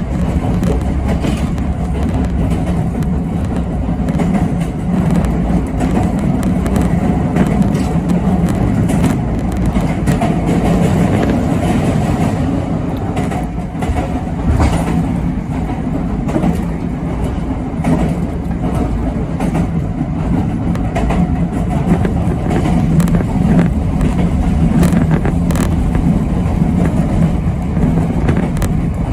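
Yoro Railway 7700 series electric train running along the line, heard from on board: a steady low rumble of wheels on rail and running gear, with a few faint clicks now and then.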